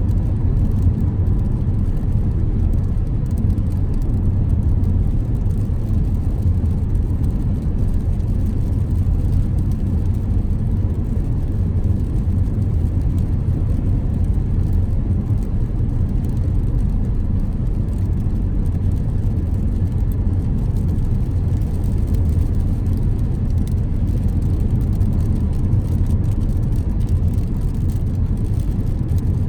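Car driving on a rain-wet road: a steady, low road and engine rumble that holds even throughout.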